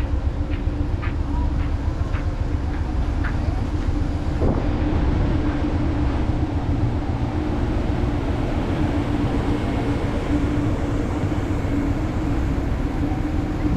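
A train standing close by: a steady low rumble with a constant hum. There are a few light clicks in the first few seconds.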